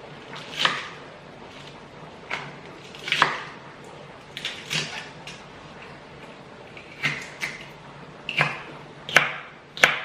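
Spatula scraping and knocking against a pan in short, irregular strokes about once a second, as mustard greens are stir-fried.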